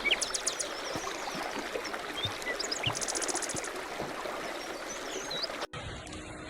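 Small birds chirping, with a quick trill about three seconds in, over a steady rushing noise like running water. The sound cuts off abruptly near the end to a different, quieter background.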